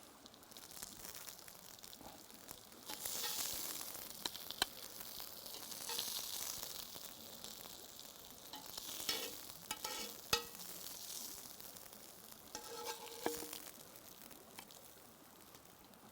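Food sizzling in garlic butter in a pan. The hiss swells and eases, and a utensil scrapes and clicks against the pan as it is stirred.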